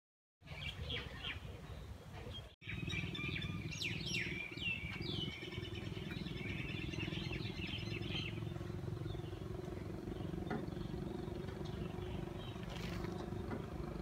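Birds chirping and calling, including several quick downward-sliding calls about four to five seconds in, over a steady low hum.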